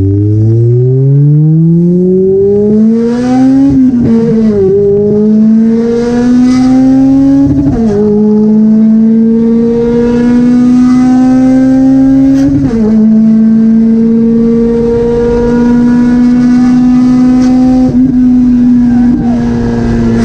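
Toyota 2ZZ-GE four-cylinder engine in a manual Corolla pulling through the gears: the revs climb steadily, then drop with upshifts about 4, 8 and 12.5 seconds in, after which the engine holds a steady pitch at cruising speed.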